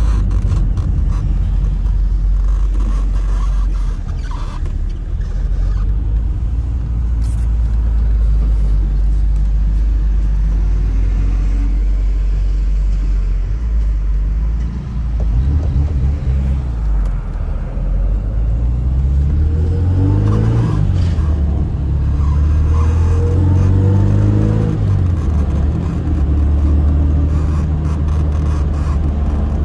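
Tofaş car's engine and exhaust heard from inside the cabin while driving, a steady low drone. About halfway through, the engine revs up and down several times through gear changes, then settles back into a steady cruise near the end.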